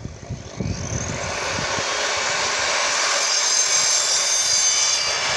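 Evolution R255SMS multi-material mitre saw running and cutting through a plastic pipe: a steady whine with high ringing tones that builds up over the first second or so and then holds.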